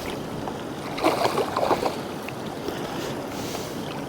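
Steady rush of strong wind and water lapping against a small boat's hull. About a second in there is a quick run of short sharp sounds, lasting under a second.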